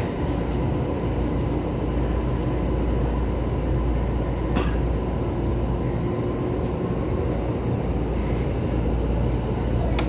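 Steady running rumble of a moving train heard from inside the carriage, with a sharp click about four and a half seconds in and another near the end.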